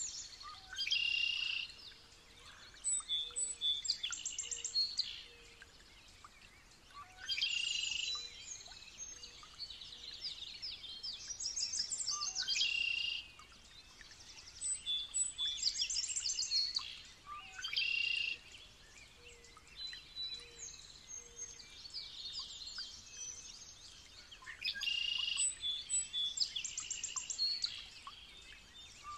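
Small songbirds singing: bursts of quick, high trills and chirps every few seconds, with softer chirping in between.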